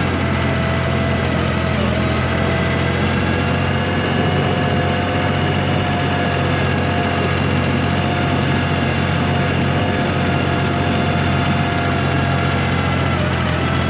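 A 1985 John Deere 1050 tractor's three-cylinder diesel engine running steadily at an even pitch, with a steady whine above the low engine note.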